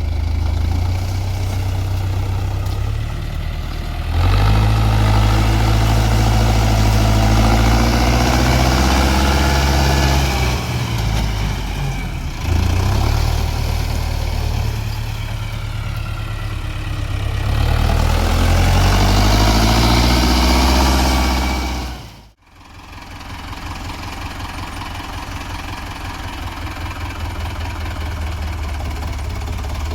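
Mahindra tractor's diesel engine running hard, its pitch rising and falling as it revs up and down. After a sudden break a little past the two-thirds mark it runs on more quietly and steadily.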